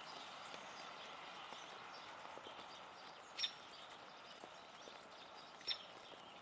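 Light rain pattering and dripping on leaves. Over it come two sharp, high clicks about two seconds apart, made as a Steller's jay lands and feeds at a wire-mesh basket feeder.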